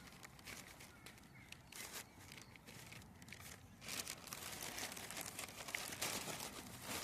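Paper and packaging rustling and crinkling as it is handled by one hand, in short irregular crackles that grow busier and louder about halfway through.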